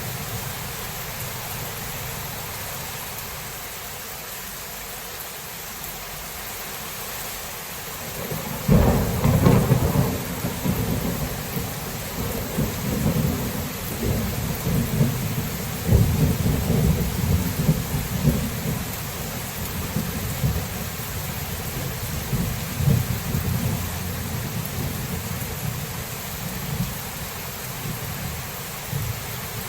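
Thunderstorm: steady rain, then a sudden loud thunderclap about nine seconds in, followed by thunder rumbling for about ten seconds before it fades back under the rain.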